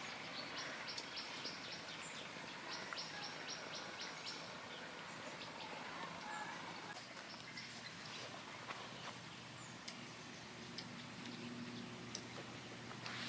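Outdoor natural ambience: a steady high-pitched insect drone, with a fast run of short chirps, about seven a second, in the first four seconds. A faint low hum comes in about halfway through.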